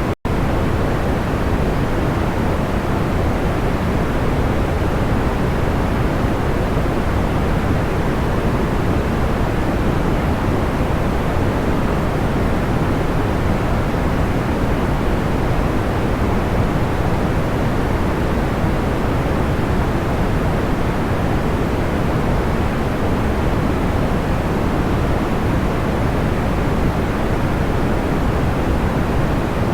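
Steady pink-type white noise, a smooth even hiss weighted toward the low end, with no crackles or tones. It cuts out for an instant just after the start.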